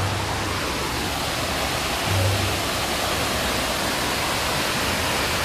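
Steady rushing of a waterfall, with faint music underneath and a brief low hum about two seconds in.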